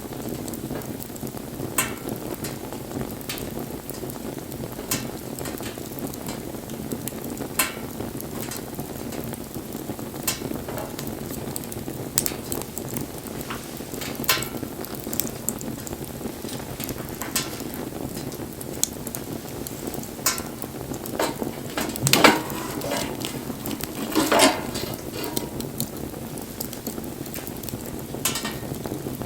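Wood fire burning: a steady low rush of flames with sharp crackles and pops every second or two, and two louder spells of crackling about three-quarters of the way through.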